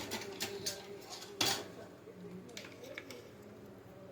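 Light clicks and taps of small tools and parts being handled on a workbench, with one sharper click about a second and a half in.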